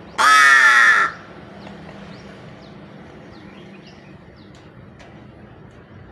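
A pet crow gives one loud, harsh caw about a second long near the start, falling slightly in pitch. Faint short high chirps follow.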